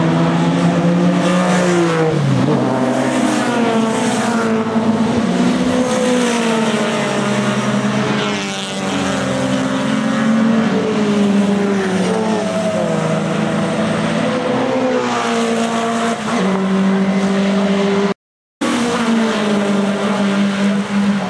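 Several racing saloon and sports car engines running hard at once, their pitch rising and falling through acceleration, gear changes and braking as the cars lap the circuit. The sound cuts out completely for a moment about 18 seconds in.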